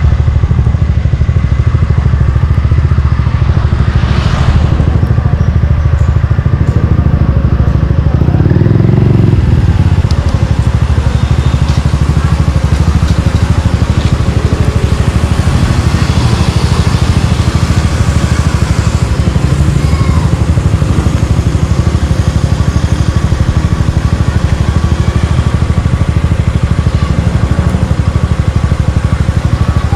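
Suzuki Gixxer 155's single-cylinder four-stroke engine running loud and steady through an aftermarket exhaust, with a brief rise and fall in revs about nine seconds in.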